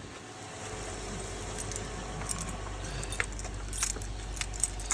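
Car keys jangling, several light metallic clinks, over a steady low hum.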